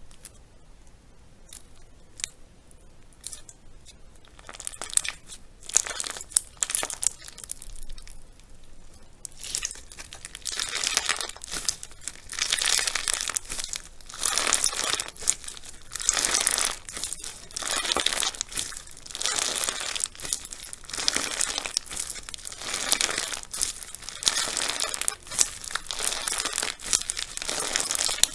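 Crunchy slime being squeezed and pressed by hands, crackling and crinkling. Faint scattered clicks at first, then from about ten seconds in a louder steady run of crackly squishes, about one a second.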